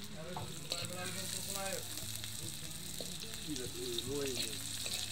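Food sizzling in hot oil in an aluminium wok over a wood fire, a steady high hiss of frying.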